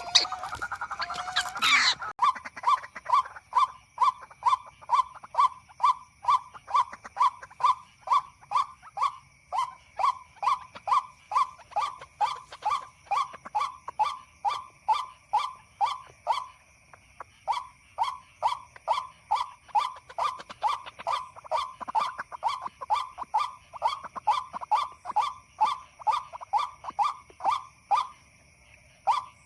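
White-breasted waterhen call repeated over and over, a short note about twice a second with a couple of brief pauses, most likely the recorded lure call played from an MP3 speaker. A faint steady high whine runs beneath it, and a louder, busier call opens it in the first two seconds.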